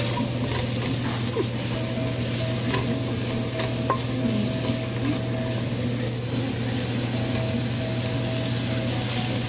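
Onions and red bell pepper sizzling in oil in a stainless steel pot, stirred with a wooden spatula that scrapes and taps against the pot now and then, over a steady low hum.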